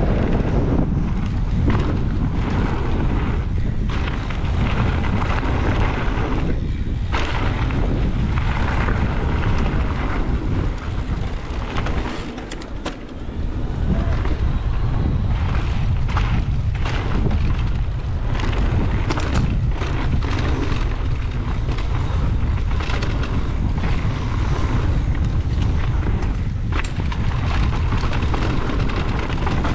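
Wind buffeting the microphone during a fast mountain-bike run: a loud, steady low rumble, with a brief lull about twelve seconds in.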